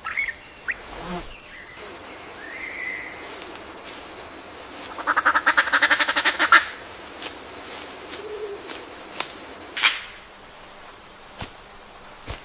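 Bird calls: scattered short chirps and sharp clicks, with a loud, rapid rattling series of notes about ten a second, lasting a second and a half about halfway through. A faint, steady high tone runs underneath for most of the time.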